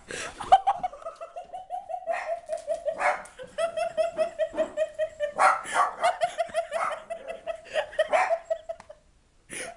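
Akita giving a long run of rapid, short, high yips or whines at a steady pitch, about six or seven a second, in excitement while chasing a bird, with a few louder noisy bursts among them.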